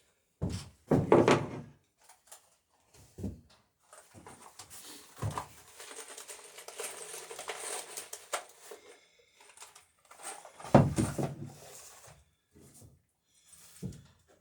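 Workshop handling noise: tools and gear being picked up, shifted and set down, with clunks and rattles about a second in and again near the end, and a long rustling, sliding stretch between them.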